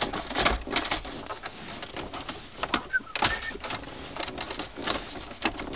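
Irregular clicking, knocking and scraping of plastic parts and wiring being handled and fitted by hand.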